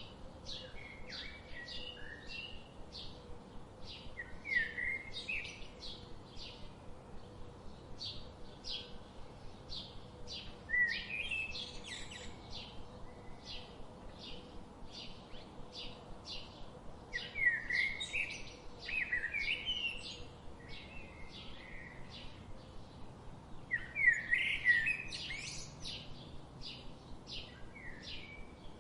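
Songbirds chirping: a steady run of short high chirps at about two a second, with louder warbling song phrases breaking in several times, the loudest a little before the end.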